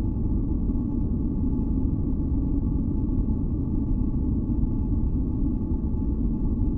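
Steady deep masking noise, most of it in the low end like brown noise, with two faint steady tones above it; it does not change.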